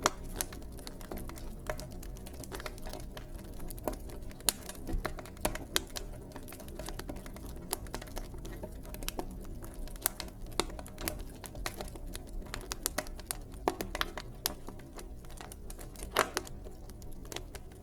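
Wood fire burning in a fireplace, crackling with irregular sharp pops and snaps, a few louder than the rest, over a steady low rumble of the flames.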